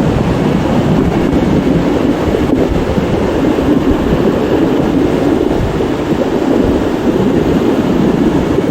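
Rain-swollen river rushing loudly and steadily: fast, high water running over big boulders.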